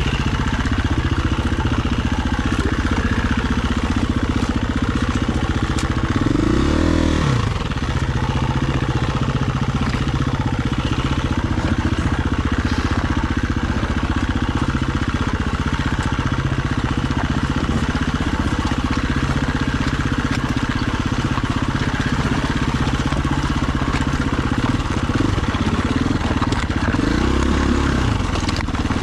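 Dirt bike engine running steadily as the bike is ridden along a trail, with a constant rush of wind and tyre noise. The revs sweep up and back down about seven seconds in, and again near the end.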